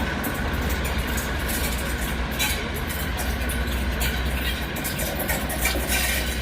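Heritage diesel locomotive running steadily, a constant deep engine hum with a few light metallic clicks.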